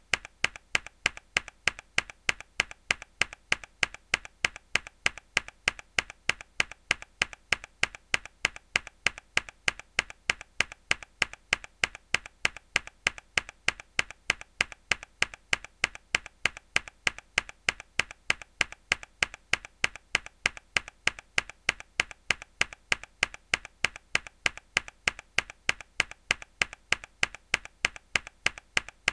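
Mechanical keyboard key pressed hard, the same sharp click looped at an even rhythm of about three a second.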